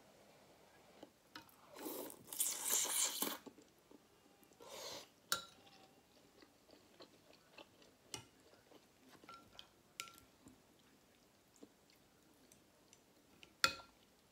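Close-miked eating: chewing of pork and shrimp from noodle soup, with scattered sharp clicks. A louder noisy burst comes about two seconds in and a smaller one near five seconds, and the sharpest click comes near the end.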